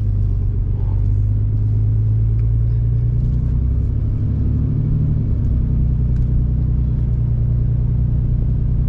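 Pickup truck's Cummins diesel engine running steadily while driving, heard from inside the cab, with a slight shift in engine pitch around the middle.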